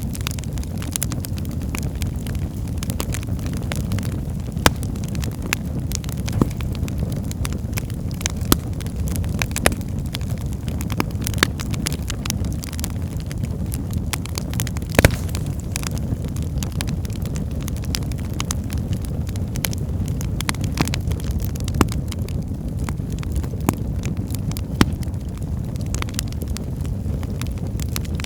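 Wood fire burning in a fireplace: a steady low rumble of flame with frequent sharp crackles and pops, the loudest pop about halfway through.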